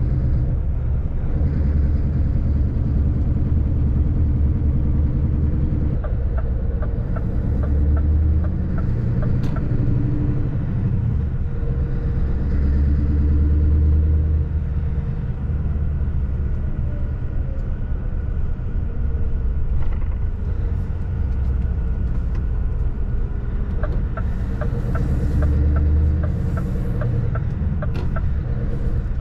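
Scania 770S truck's V8 diesel running under way, a steady low drone whose pitch rises and falls a little with engine speed. Twice a run of regular ticks sounds over it for a few seconds.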